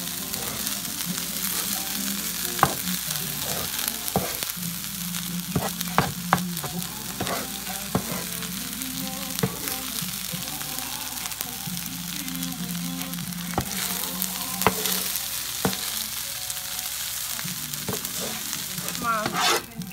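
Fried rice sizzling on a flat-top griddle in melted garlic butter while a spatula stirs and spreads it, with scattered sharp taps and scrapes of the spatula on the griddle surface.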